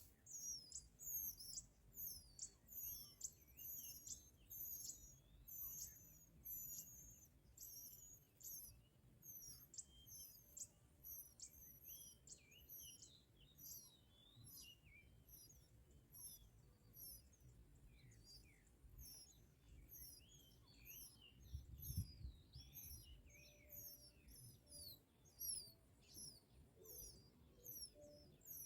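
Faint high, thin bird chirps, short calls repeated about twice a second, with a soft low thump about two-thirds of the way through.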